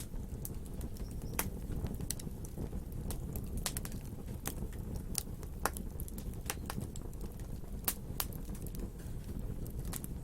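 Wood fire burning and crackling: irregular sharp pops and snaps, several a second at times, over a steady low rumble of flames.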